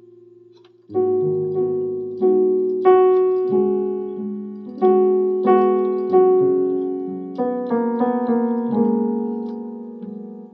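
Electronic keyboard playing a slow, gentle melody over sustained chords in a piano voice. Each note is struck and then fades away.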